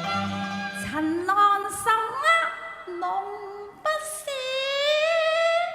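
A woman singing a Cantonese opera aria, her voice sliding between notes with vibrato and ending on a long held note, over instrumental accompaniment that drops away after the first second.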